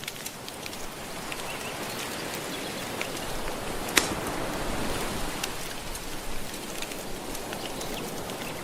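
Steady hiss of gentle ocean waves washing on the shore, mixed with a crackling wood fire that gives scattered small pops and one sharp, louder pop about four seconds in.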